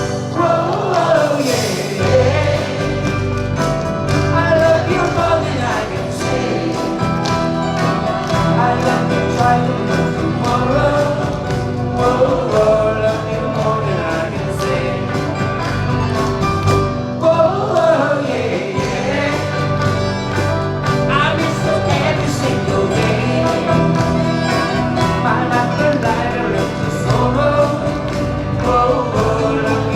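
Live band playing a pop oldie with singing over a steady beat.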